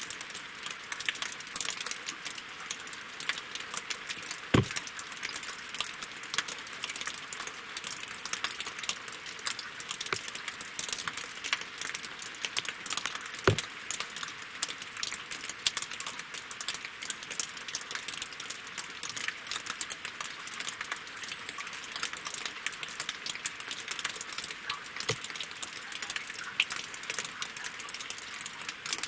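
Winter rain falling on a lake and on logs: a steady, dense spray of small drop ticks, with three heavier single drops landing more loudly at about 5, 13 and 25 seconds in.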